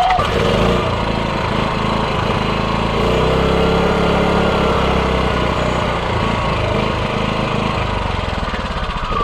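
A freshly reassembled small motor starts abruptly, runs steadily for about nine seconds, then is switched off near the end and winds down with a falling whine. It now stops properly because its switch is seated correctly.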